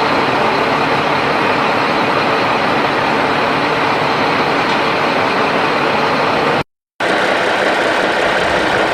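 Heavy road-construction machinery running, a loud steady mechanical noise that drops out completely for a moment about two-thirds of the way through.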